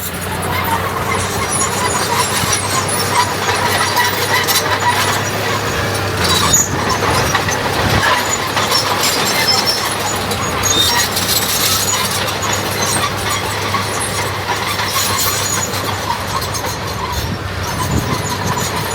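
Heavy diesel earthmoving machinery running steadily, with a few sharp knocks and clanks about six to eight seconds in.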